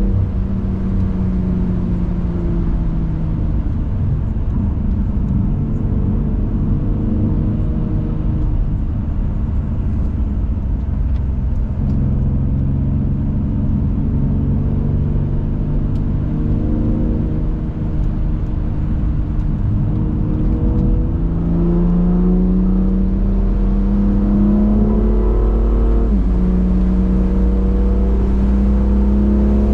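BMW M2 Competition's twin-turbo straight-six driving, its pitch rising and falling as it accelerates and eases off, over a low road rumble. A sudden drop in pitch near the end marks an upshift.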